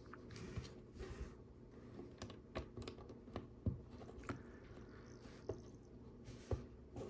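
Small plastic Lego pieces clicking and rattling as they are handled and pressed together: a scatter of faint, sharp clicks at irregular intervals.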